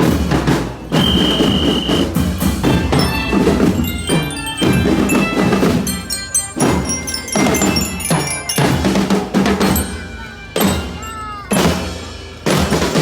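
Percussion music with drums and bell-like mallet tones, with repeated strikes throughout and a steady high tone held for about a second near the start.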